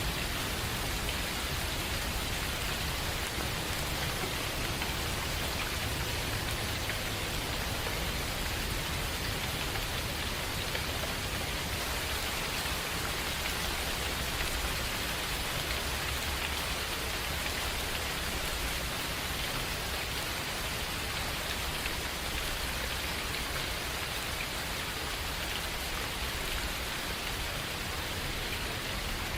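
Steady rain falling in a forest, an even patter of drops with a faint low rumble underneath.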